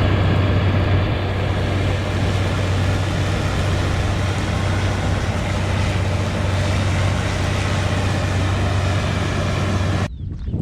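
Tractor engine running steadily under load with a constant deep hum. It cuts off abruptly near the end.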